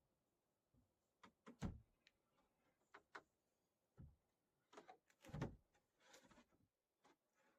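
A string of irregular knocks and thumps, about nine in all, two of them louder, with a short scraping rustle near the end.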